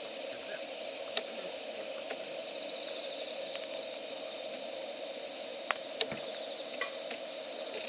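Wood campfire crackling, with scattered sharp pops and ticks, over a steady high-pitched drone.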